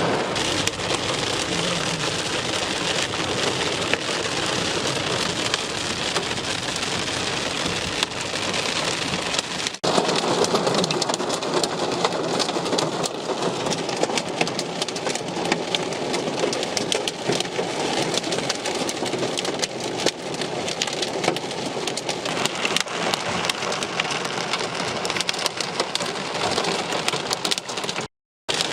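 Heavy rain pouring and drumming on a surface, with a dense patter of individual drop impacts; the sound drops out briefly near the end.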